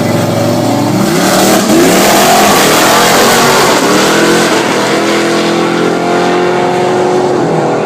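Drag racing cars accelerating hard at full throttle, the engine pitch climbing again and again through the gear changes.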